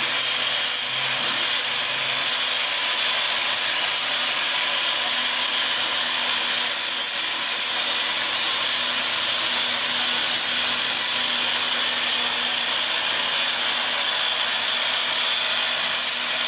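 An angle grinder fitted with a PadHead polishing head runs steadily, its friction-driven diamond pads at 800 grit polishing a slab of engineered stone. The sound is an even motor whine with the hiss of the pads on the stone.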